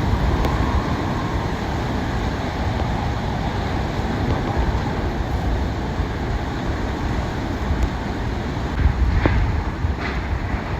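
Hurricane eyewall winds blowing, a steady rush and low rumble with gusts buffeting the microphone, with a few faint knocks near the end.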